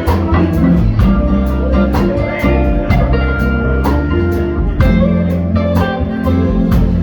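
Live band playing an instrumental passage of a soul-blues song: guitar to the fore over bass and drums keeping a steady beat of about two hits a second.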